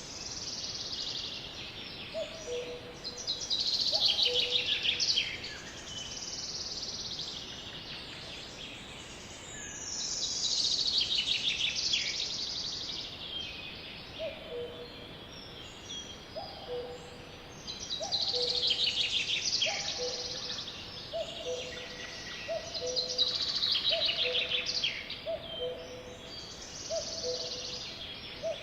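Songbirds singing repeated trilled songs that fall in pitch, each about two seconds long, every few seconds. Under them a low two-note hoot, higher note then lower, repeats a few times early on and then about once a second from the middle on.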